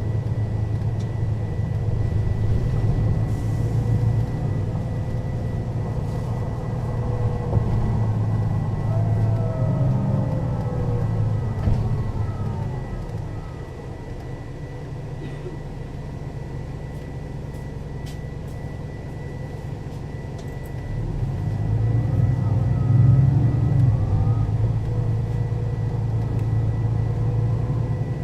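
Mercedes-Benz O 530 Citaro city bus's diesel engine and ZF automatic gearbox heard from on board, running under way with a whine that rises and falls through the gears. About halfway through it settles to a quieter idle for several seconds, then pulls away again, louder, with the whine rising once more.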